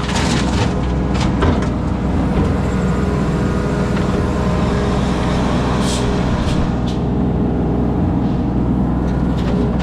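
Engine of construction machinery running steadily, with a few sharp clanks or knocks over it.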